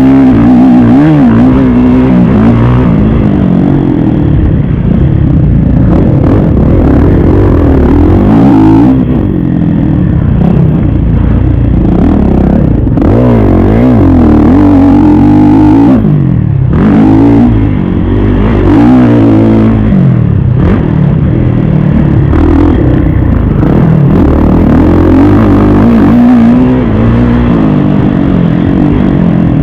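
Kawasaki KX450 single-cylinder four-stroke motocross bike being ridden hard around a dirt track. The engine revs up and down continually as the throttle opens and shuts, with short drops off the throttle about 9 and 17 seconds in.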